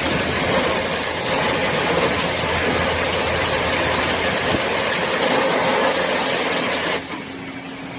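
Self-serve car-wash pressure washer spraying, a loud, steady hiss, that cuts off suddenly about seven seconds in.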